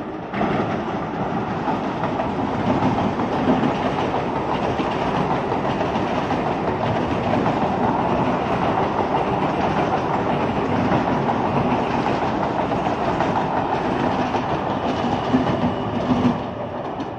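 Electric multiple-unit suburban train running past at speed: a steady rumble of wheels on rail with the clickety-clack of rail joints, fading near the end.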